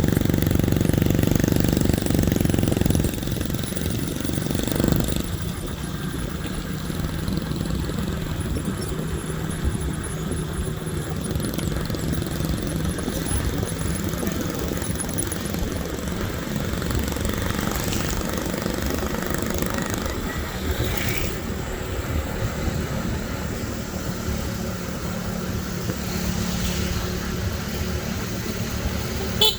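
Small engine running steadily, louder for the first three seconds and then settling at a lower, even pitch.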